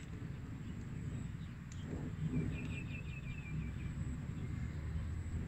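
Open-air ambience with a steady low rumble, and a bird giving a quick run of about eight short, even notes about halfway through.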